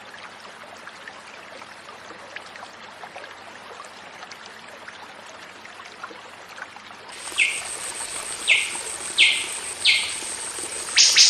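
Bird calls: after several seconds of quiet, even background noise, a steady high whine sets in about seven seconds in, and over it come four short, clear downward-sweeping calls, then a quick run of calls near the end.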